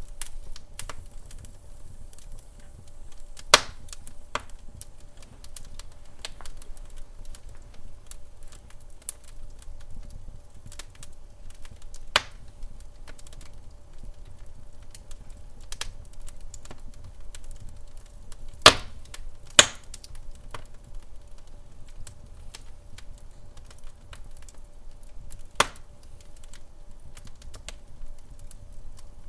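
Wood fire in a fireplace crackling, with frequent small irregular pops and a handful of sharper, louder pops, over a low rumble and a faint steady hum.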